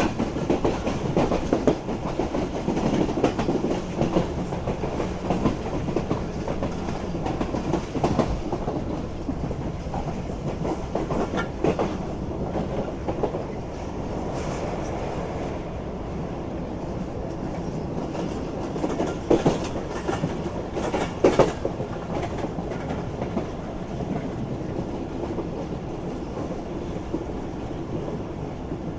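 Moving passenger train: a steady rumble with the clickety-clack of wheels running over rail joints, and a few sharper clacks, the loudest two about two-thirds of the way through.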